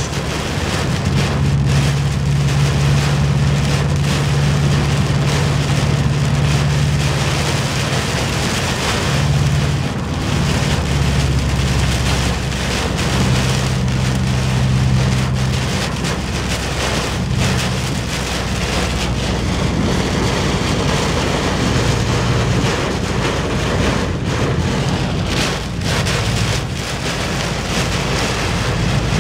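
Heavy downpour on a moving car's roof and windshield, heard from inside the cabin: a loud, steady rush of rain with a low road rumble beneath it.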